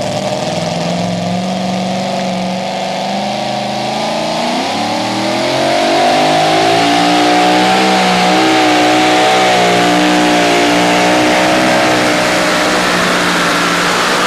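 Two-wheel-drive pulling truck engine running hard under load during a pull. Its pitch climbs about four to six seconds in and then holds high and steady.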